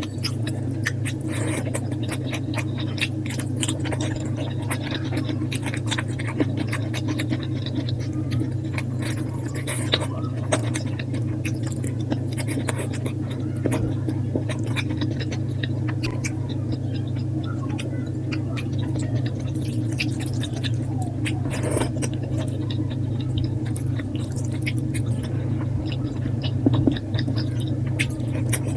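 Close-up eating sounds played at double speed: a person chewing and smacking, with many quick wet mouth clicks over a steady low hum.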